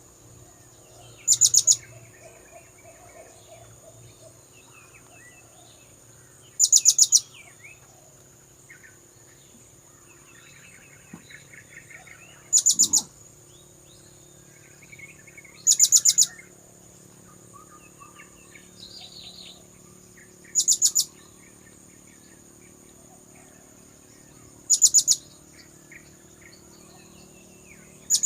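Blue-crowned hanging parrot (serindit) lure call: short, shrill, very high bursts of rapid notes, repeated every three to five seconds. A steady high whine and faint chirps of other birds sit underneath.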